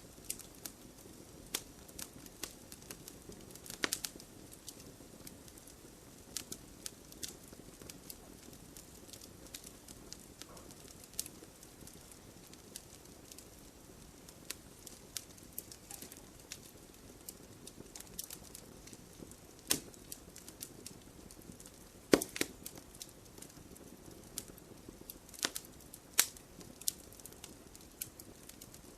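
Wood fire crackling: a low steady hiss with frequent sharp, irregular pops and snaps, a few of them louder.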